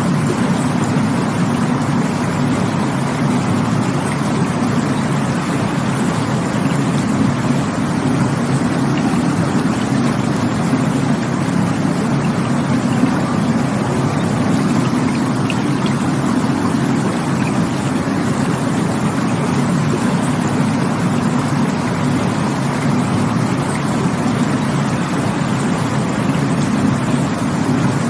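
Rushing water, the even flow of a stream over falls, with a deep, steady rush that does not change.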